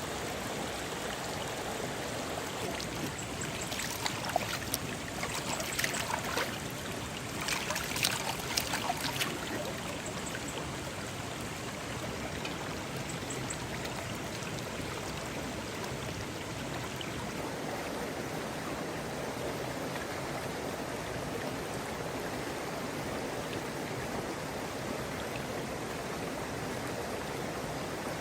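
Water flowing steadily in a stream, a constant rushing noise. Between about four and nine seconds in, a cluster of short, sharp sounds rises above it.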